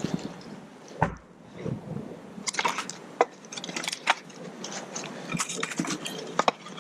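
Small split sticks and dry tinder being handled and set down: irregular knocks, clicks and rustling, with a dull thump about a second in.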